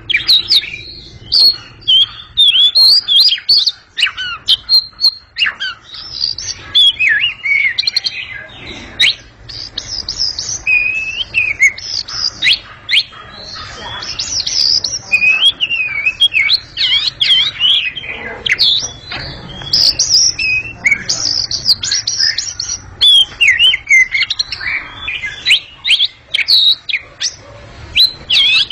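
Home-kept oriental magpie-robin (kacer) singing loudly. It gives a rapid, varied stream of clear whistles and chirps that slide up and down in pitch, with only brief pauses.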